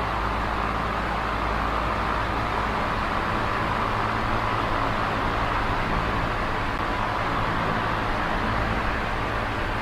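Small electric oscillating fan running steadily: an even rush of air from the blades over a low motor hum.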